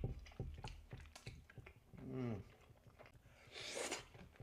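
Close-miked chewing of crunchy food, likely fried soup dumplings and noodles, with many small crisp clicks. A short hummed sound comes about two seconds in, and a sharp breath near the end.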